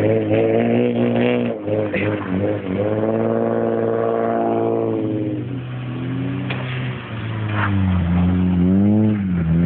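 Car engines revving hard as a Peugeot 106 and a Mitsubishi FTO drift round a snow-covered roundabout. The pitch rises and falls, holds high in the middle, drops about five and a half seconds in and climbs again near the end, over a steady lower engine hum.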